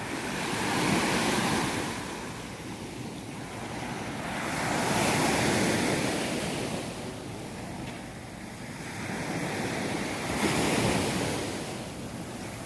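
Sea surf: waves breaking on the shore, swelling up three times about every four to five seconds, with wind on the microphone.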